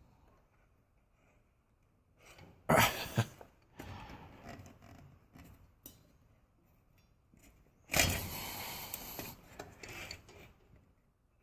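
Intermittent scrapes and knocks from handling parts as a new drive belt is worked onto an old Craftsman garage door opener, with the loudest scraping spell near the end.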